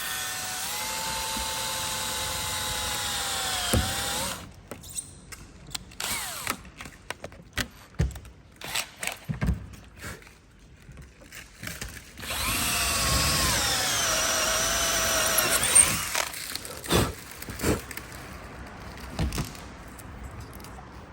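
Electric drill running in two bursts of about four seconds each, a steady whine that drops in pitch as the motor stops; scattered clicks and knocks of handling between the bursts.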